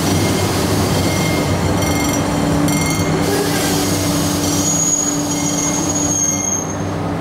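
Electric commuter train running on the rails, with a steady low hum and a thin high wheel squeal from about halfway through until near the end.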